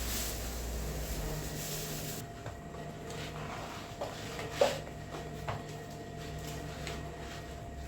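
A few light knocks and clicks over a steady hum in a small room, with one sharper knock about halfway through.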